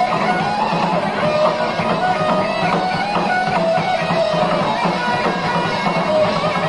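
Live heavy metal band playing, with electric guitars prominent over a dense, steady band sound. A lead melody line wavers and bends up and down in pitch throughout.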